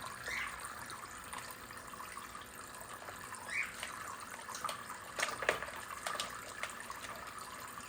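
Water splashing and dripping as a cockatoo dabbles and scrubs a sponge in a small dish of water, with scattered small splashes and clicks, a few sharper ones past the middle.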